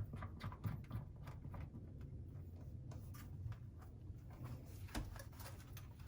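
Faint scattered clicks and small handling noises of a threaded water-line fitting being hand-tightened on an under-sink water heater, with one sharper knock about five seconds in, over a low steady hum.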